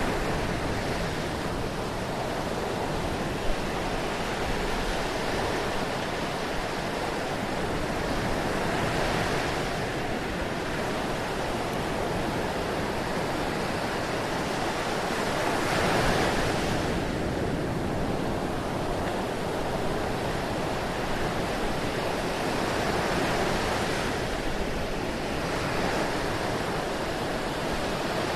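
Ocean surf: a steady wash of waves rolling in and breaking, swelling and easing every several seconds. A single brief tick about three and a half seconds in.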